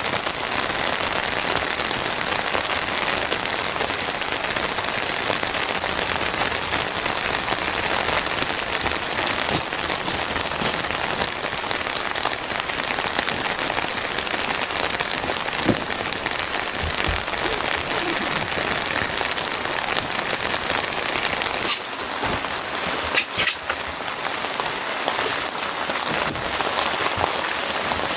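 Steady rain falling in a dense, even patter, with a few sharper taps about three-quarters of the way through.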